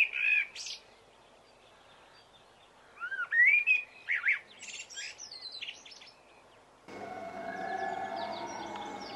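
Wild songbirds singing in quick chirping, whistled phrases, in two bursts. About seven seconds in a steady background hum comes in suddenly, with fainter chirps still heard over it.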